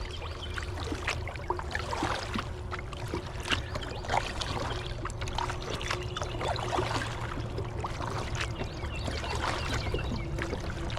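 River water lapping and trickling against a kayak's hull, with scattered small splashes and clicks.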